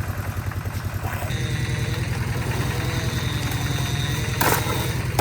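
Concrete mixer's engine running steadily with a fast, even chug, and a short loud burst of noise near the end.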